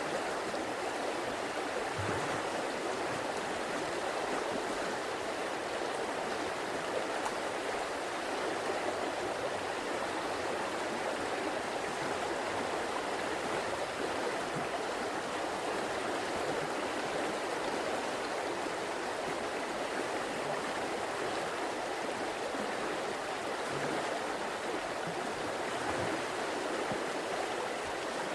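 River water flowing in a steady, continuous rush, with a few faint low gurgles.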